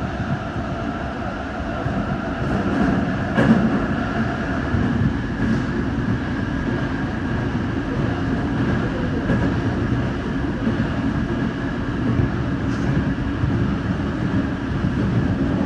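Commuter train on the Tōyō Rapid Railway line running at speed through a tunnel, heard inside the car: a steady low rumble of wheels on rail, with a sharp knock about three and a half seconds in and a few faint clicks.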